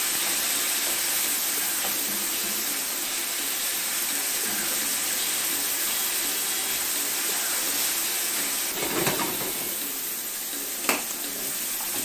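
Turkey burger patties and meatballs frying in a skillet, a steady sizzling hiss, with the pan hot enough that the burner needs turning down. A single sharp knock near the end, the metal spatula against the pan.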